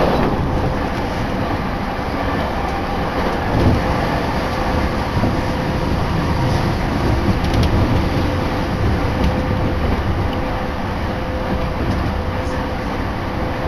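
Tokaido Line electric commuter train running at speed, heard from inside the passenger car: a steady rumble of wheels on track with a faint steady hum.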